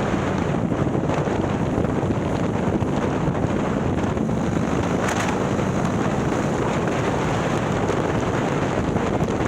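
Harley-Davidson Milwaukee-Eight V-twin, bored out to 130 cubic inches and fitted with a ThunderHeader exhaust, running at a steady cruise. Heavy wind noise on the microphone covers much of the engine.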